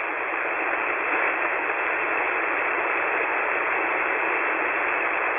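Steady hiss of static on an open HF air-ground radio channel, with no voice on it.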